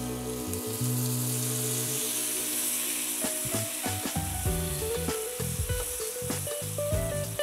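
Chicken pieces sizzling and frying in oil in a nonstick pan, stirred and scraped with a silicone spatula as a little water goes into the pan. The sizzle is loudest in the first half, with soft background music underneath.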